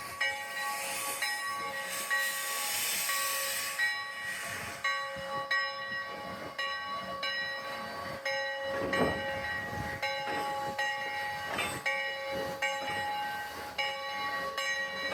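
Steam locomotive running, with a loud hiss of steam over about the first four seconds, then a steady, evenly repeating mechanical sound.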